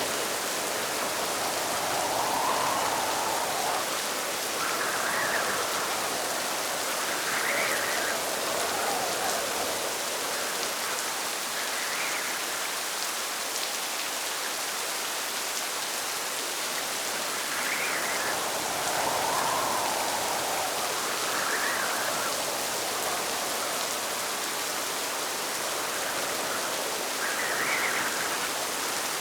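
Steady rain hiss, with soft gusts of wind swelling and fading every couple of seconds.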